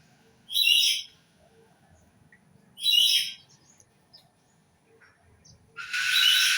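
A bird calling: two short calls about two seconds apart, then a longer call that starts near the end.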